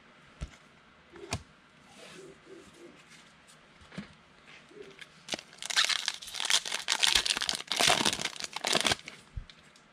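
A trading card pack's foil wrapper being torn open and crinkled: a few light clicks and taps, then loud crinkling starting about six seconds in and lasting about three seconds.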